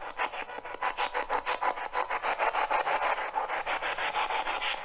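Spirit box sweeping through radio stations: a rapid, even chopping of static, about eight short bursts a second.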